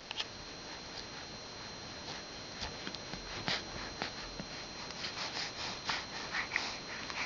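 Faint scratchy clicks and rustling from a pet moving about, with a few brief high squeaks in the second half.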